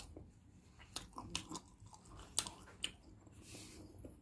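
Faint, close-miked chewing of balut, a boiled fertilized duck egg, with scattered soft mouth clicks.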